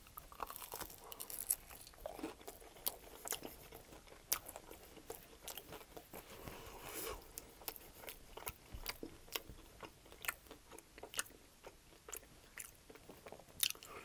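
Crunching and chewing of an extra-crispy air-fried chicken wing in barbecue honey hot sauce, a bite taken and then chewed, with many sharp crackles of the crisp skin throughout.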